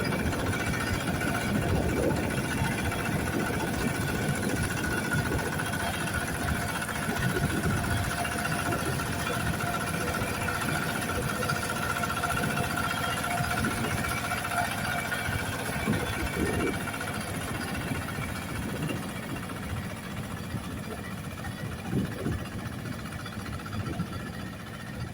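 Kubota KRT140 walk-behind tractor's single-cylinder diesel engine running steadily, easing a little quieter near the end, with wind buffeting the microphone.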